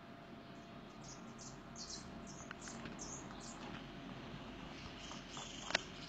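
High, thin chirps from a small bird, about seven short notes over a couple of seconds, over a steady hiss. A single sharp click near the end.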